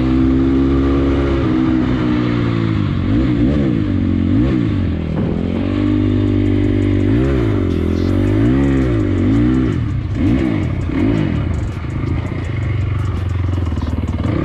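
Motorcycle engine running hard. For about two seconds it holds a steady high pitch, then it rises and falls again and again, about once a second, with the throttle and gear changes.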